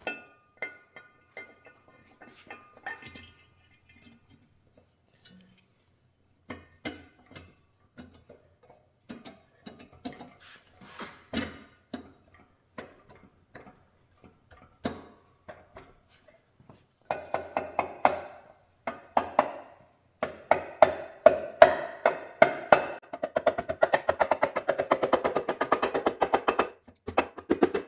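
Hand tools and metal parts knocking as an engine front cover is fitted onto the engine case. Scattered taps and knocks give way, about two-thirds of the way in, to a long run of fast, closely spaced clicks and taps.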